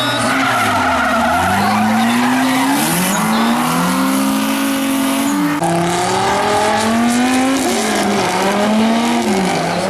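Drift car engine revving hard, its pitch climbing and dropping back again and again as the throttle is worked, over the hiss of tyres skidding and squealing. The sound changes abruptly about halfway through.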